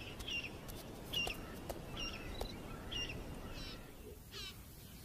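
Birds chirping in short, high calls about every half to one second, with a quick falling run of notes about three and a half seconds in, over a faint outdoor hiss.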